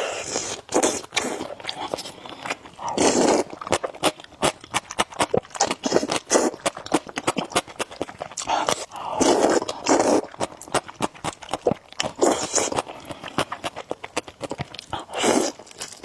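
Close-miked eating of noodles: rapid wet mouth clicks and chewing throughout, broken by several longer slurps.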